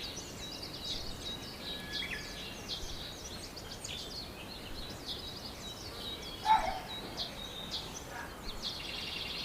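Many small birds chirping and twittering together in dense, overlapping high calls and short trills. About six and a half seconds in, one louder, lower-pitched call cuts through.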